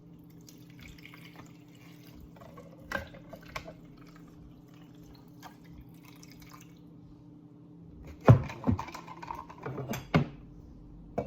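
Cooled coffee poured into a glass over ice cubes, trickling and dripping, with a few sharp clinks of ice against glass. The loudest clinks and splashing come in a cluster about eight to ten seconds in.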